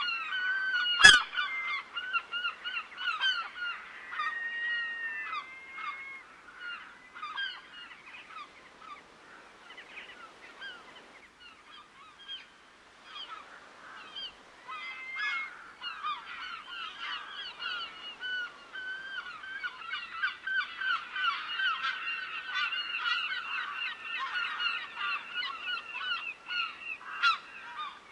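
A flock of geese honking, many short calls overlapping in a dense chorus that thins for a while midway and swells again toward the end. A single sharp click sounds about a second in.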